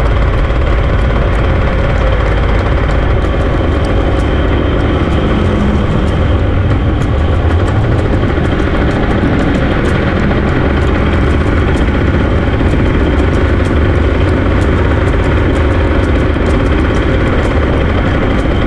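A small vehicle engine running steadily at an even speed, with no revving.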